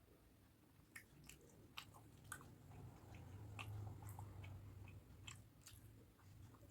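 Faint close-miked chewing of a mouthful of rice and curry, with irregular wet mouth clicks and smacks.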